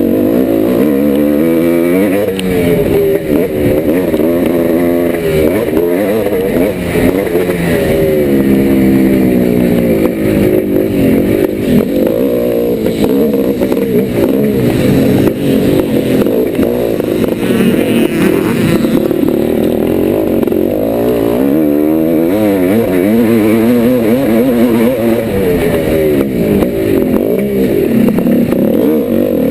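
The single-cylinder two-stroke engine of a 1990 Yamaha YZ490 motocross bike, revving up and dropping back again and again as it is ridden hard around a track.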